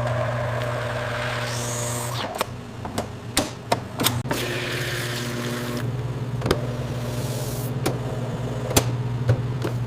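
Production-line machinery running with a steady hum, with sharp clacks at irregular intervals, several close together in the middle and two more near the end.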